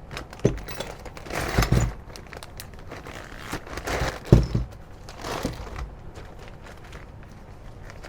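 Plastic bag crinkling and rustling as parts are handled, in several bursts, with a couple of sharp knocks; the loudest knock is about four seconds in.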